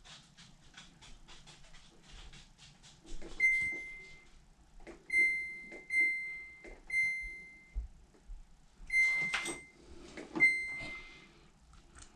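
Samsung front-load washer's rotary cycle-selector knob clicking quickly through its detents as it is turned. Then the control panel gives six short, high electronic beeps as the test-mode controls are pressed, with a click or knock at several of the beeps.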